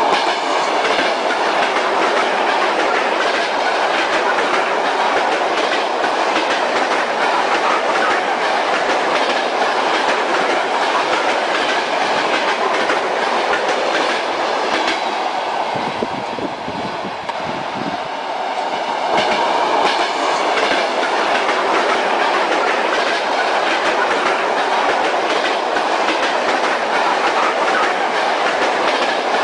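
Train wheels clicking over rail joints over a steady rolling rumble of a moving railway carriage, the noise easing briefly a little past halfway before returning.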